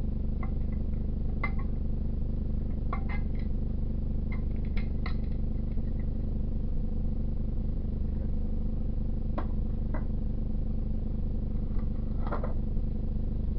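A steady low mechanical hum, with a few light clicks and taps scattered through it, about half a dozen in all.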